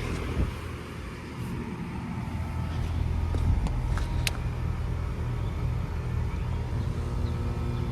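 2008 Carrier Performance Series heat pump outdoor unit running in cooling mode: a steady low compressor hum with the condenser fan. It dips about a second in, then builds over the next couple of seconds and holds.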